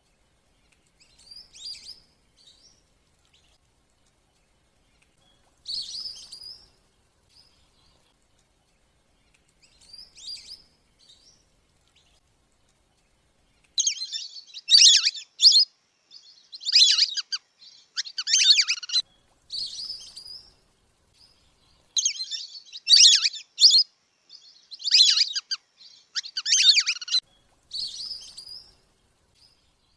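Wandering whistling ducks (belibis kembang) whistling, from a bird-lure call recording. A few scattered calls come first, then from about halfway through a louder, fast run of repeated whistled call bursts roughly every two seconds.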